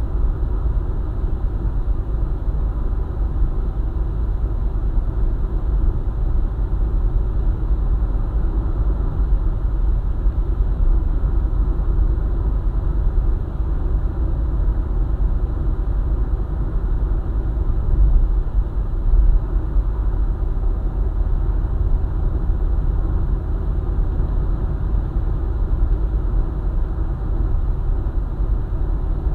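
Steady low rumble of a car driving along a highway: tyre and engine noise at cruising speed, swelling briefly about two-thirds of the way through.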